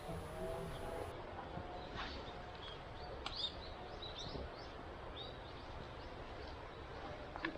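Small birds chirping in woodland, short high calls scattered throughout, over a low rustling background with a few sharp clicks.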